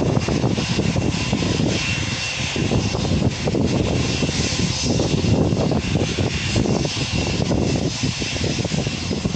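Jet airliner's engines running loud and steady, a dense rumble with a steady high whine over it.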